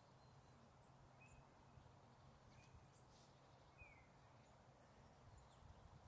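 Near silence: a faint low hum with a few faint, short bird chirps.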